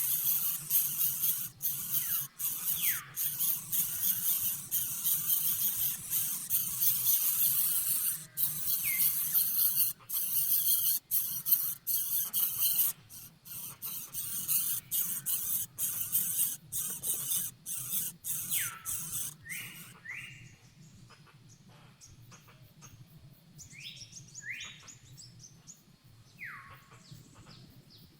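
Bird calls: short whistles that slide downward, repeated a few at a time and clustering in the second half. Over the first half a loud, crackling hiss runs under them, thinning out and dying away about two-thirds of the way through.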